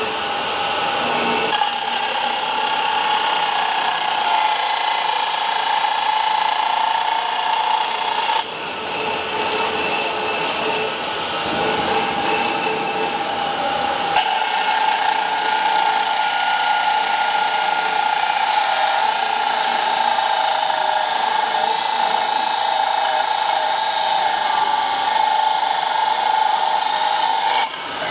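Hilti powered rebar cutter running as it cuts through a steel bar: a steady motor whine with scraping, its sound shifting a few times along the way.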